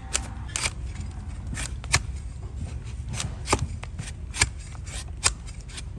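A hoof-trimming blade cutting and scraping a donkey's hoof in short, sharp strokes at irregular intervals, over a low steady rumble.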